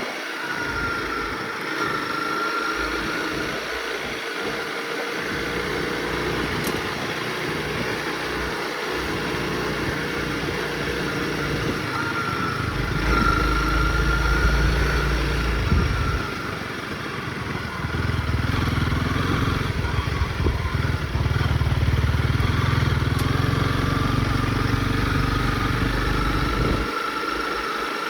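Honda CRF motorcycle engine running under way, its note rising and falling with the throttle, with heavier stretches of pulling about halfway in and again in the later part.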